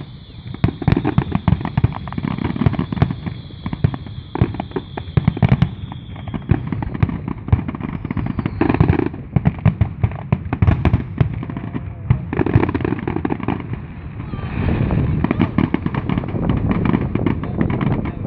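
Fireworks display: a dense, continuous run of bangs and crackling shell bursts, with a high steady whistle over the first six seconds.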